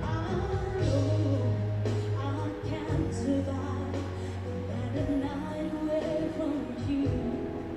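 A female singer holding long notes over a pop ballad's band accompaniment, with steady bass underneath.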